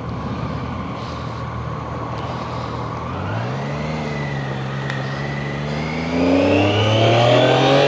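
Triumph Daytona 660's inline three-cylinder engine running under way, its pitch stepping up about three seconds in, then climbing steadily and getting louder from about six seconds in as the bike accelerates.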